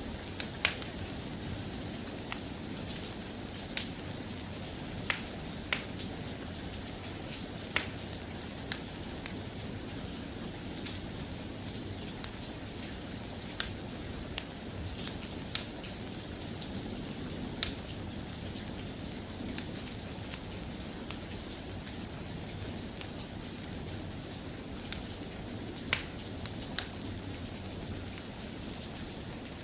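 Steady rain falling, with scattered sharp ticks every second or two over the even hiss.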